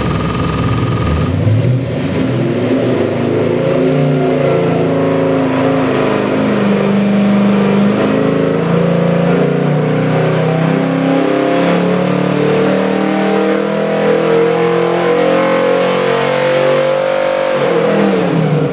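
347 cubic-inch stroker small-block Ford V8 running on an engine dyno, its revs climbing slowly and steadily for about fifteen seconds, then dropping quickly as the throttle is closed near the end.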